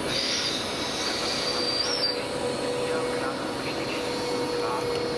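Passenger train hauled by a Class 162 electric locomotive rolling past, wheels running on the rails with a steady hum. A high squeal sounds during the first two seconds.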